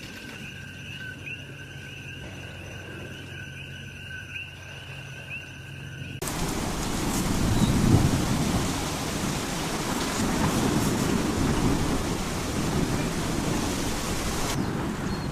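High, steady chirping calls for about six seconds, then an abrupt cut to a loud, steady rumbling roar with a noisy hiss, typical of a Kilauea fissure eruption's lava fountain.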